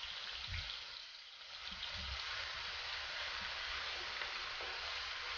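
Ginger-garlic-green chilli paste frying in hot oil in a kadai, a steady sizzle as it is stirred with a wooden spatula.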